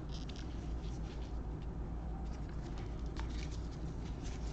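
Faint, irregular small ticks and scrapes of football trading cards being slid and flipped through by hand, over a steady low hum.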